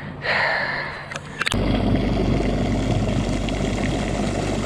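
Boat motor running steadily at idle, a low even hum that comes in suddenly about a second and a half in, after a brief rush of noise.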